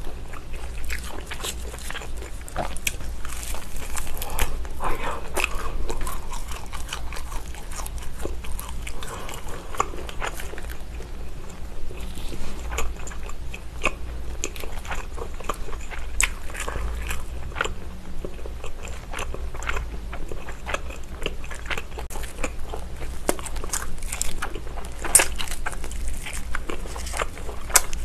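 Close-miked eating sounds: biting into and chewing grilled lamb rib chops, with many small irregular wet clicks and smacks of the mouth.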